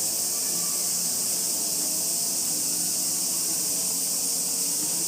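Summer cicada chorus, a steady high shrill drone with no break, under a faint low wavering hum.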